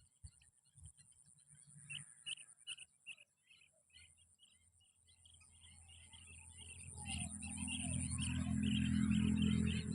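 A big flock of small birds chirping, sparse at first and thickening into a dense chorus about halfway through, over a steady high buzz. A low hum swells up under them from about four seconds in and is loudest near the end.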